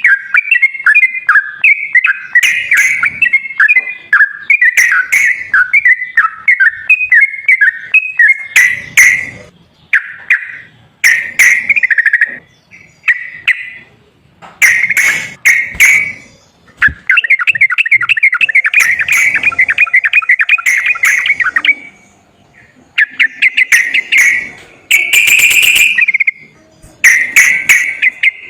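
Yellow-vented bulbul (trucukan) song: bubbly whistled phrases repeated with short pauses, and a long rapid trill lasting several seconds in the middle.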